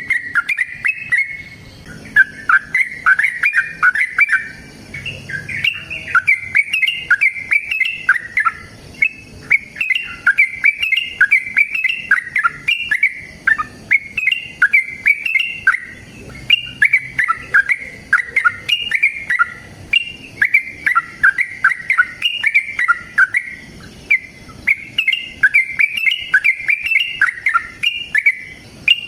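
Yellow-vented bulbul singing in an unbroken run of quick, bubbly chattering phrases, one phrase running into the next. This is the long, excited song that bird keepers play to draw in and set off other bulbuls.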